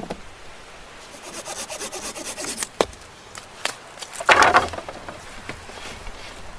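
Wood being worked by hand: a run of quick rubbing, scraping strokes, then a sharp knock, and about two-thirds of the way through a louder, rougher scrape.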